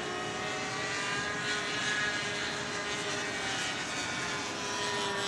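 Radio-controlled model airplane in flight, the drone of its motor and propeller drifting slowly up and down in pitch as it flies around.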